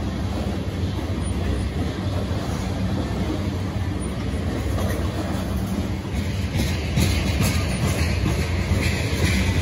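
Freight train of tank cars rolling past close by: a steady low rumble of steel wheels on rail, with a run of sharper clicks over the last few seconds.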